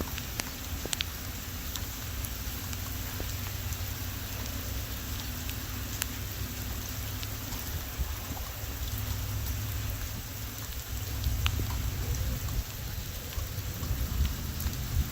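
Heavy thunderstorm rain falling steadily, with scattered sharp drops striking close by. Strong wind rumbles low on the microphone and swells in gusts near the end.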